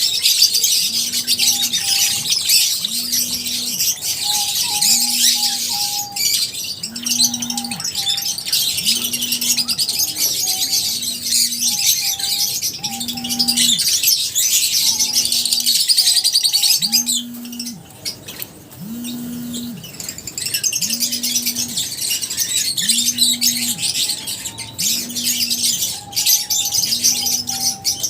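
A flock of lovebirds chirping and chattering densely in high calls, thinning out briefly about two-thirds of the way through. Beneath the birds a low hum pulses about every two seconds.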